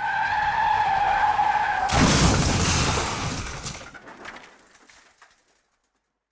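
Car tyre skid sound effect: a sustained, slightly falling screech for about two seconds, cut off by a loud crash that dies away with scattered debris rattles.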